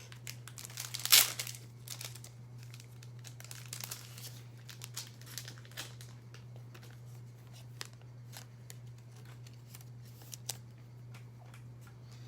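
A trading-card pack wrapper torn open with one sharp rip about a second in, followed by scattered crinkles and rustles of the wrapper and cards being handled.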